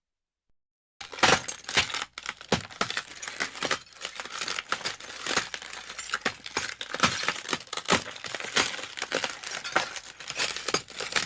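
Glass breaking and broken glass clinking and crunching: a dense, irregular run of sharp impacts that starts about a second in and keeps going for about ten seconds.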